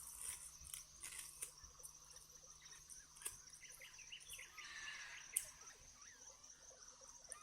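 Faint forest ambience: a steady high-pitched insect trill with a few soft bird chirps, and scattered small clicks, the sharpest about five seconds in.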